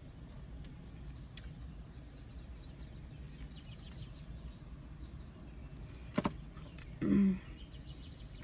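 A person chewing a cheese bite with soft mouth sounds over a steady low background hum. A sharp click comes about six seconds in, then a short closed-mouth "mm" hum a second later.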